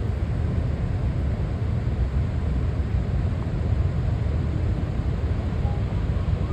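Steady low rumble of Victoria Falls' huge volume of falling water.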